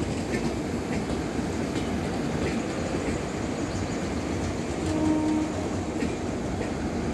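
Passenger train's LHB coaches rolling past: a steady rumble of steel wheels on the rails with light clicks as the wheels cross rail joints. A short, higher tone sounds briefly about five seconds in.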